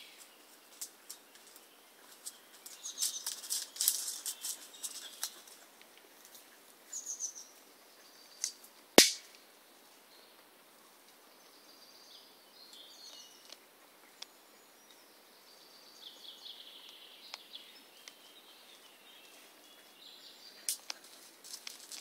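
Woodland birds singing in short high chirping phrases, with scattered light crackles and one sharp snap about nine seconds in, the loudest sound.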